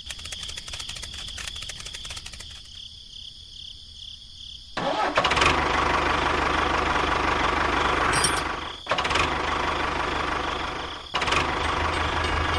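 Faint fast clicking, then about five seconds in a tractor engine starts and runs loudly, broken off briefly twice near the end.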